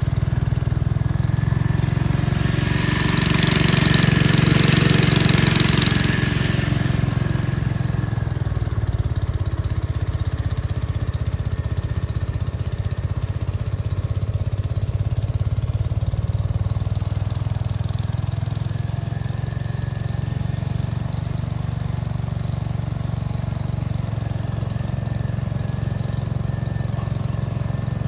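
Gravely walk-behind tractor engine running steadily, driving a snowblower. About three seconds in it grows louder with a rushing hiss for a few seconds, then settles back to a steady run.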